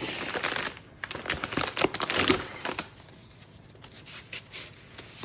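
Rustling and crinkling handling noises, busy for about the first three seconds, then a few softer taps and rustles.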